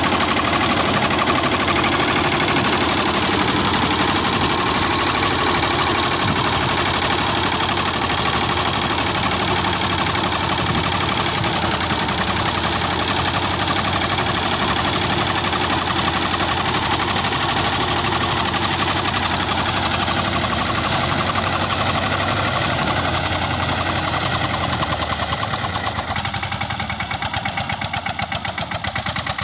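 Captain 200 DI mini tractor's diesel engine running with a rapid, steady knock. It gets somewhat quieter near the end.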